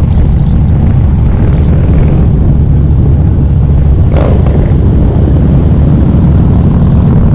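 Harley-Davidson V-twin motorcycle engine running steadily under way, a loud, continuous low exhaust rumble.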